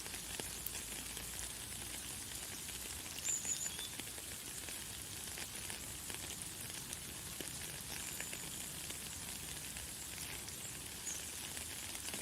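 Light, fine rain falling steadily: a soft hiss with many small drop ticks. A few short, high bird chirps come through now and then.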